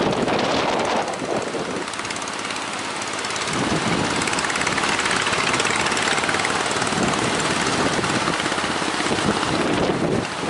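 Speedboat's outboard motor running, mixed with heavy wind buffeting the microphone and the wash of water.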